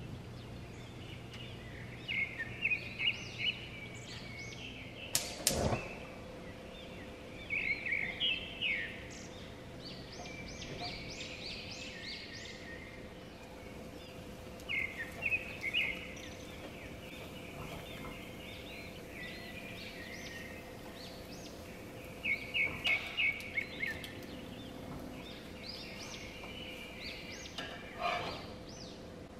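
Bird chirping in short, quick series of high notes that come again and again. There is one sharp knock about five seconds in.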